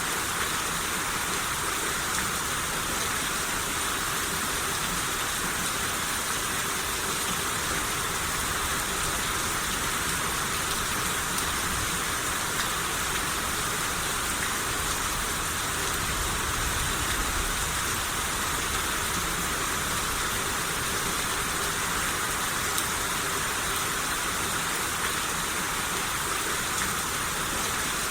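Rain shower falling steadily, an even hiss of drops.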